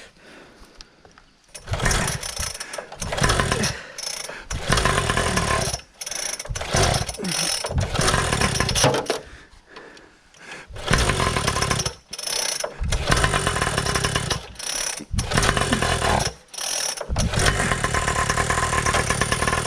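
Brand-new two-stroke gas engine of a large-scale RC monster truck starting, catching and cutting out again and again before it settles into steady running near the end. This is a break-in start without the choke, which the owner feels it could have used.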